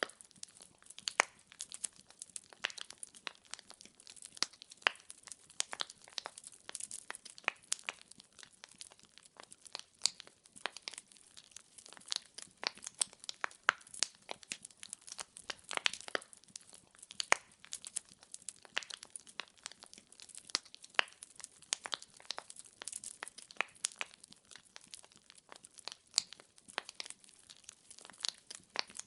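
Wood fire in a fireplace crackling, with many irregular small pops and the occasional louder snap of burning logs.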